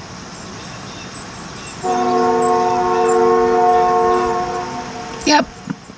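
Train horn sounding one long, steady, chord-like blast that starts about two seconds in and lasts about three seconds: the train signalling for a road crossing.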